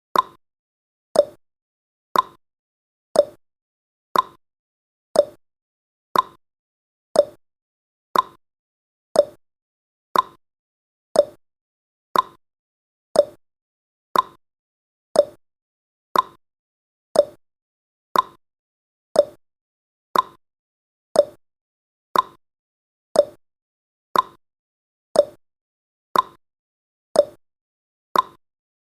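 Countdown timer sound effect: a short tick or click, once a second, each one dying away quickly.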